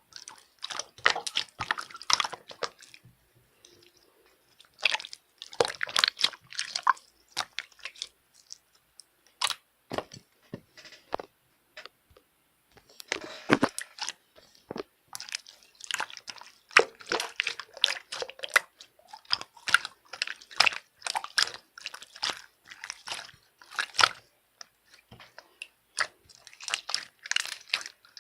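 Slime being squeezed and worked by hand, crackling and popping with dense clusters of small wet clicks in bursts a second or two long, broken by short pauses.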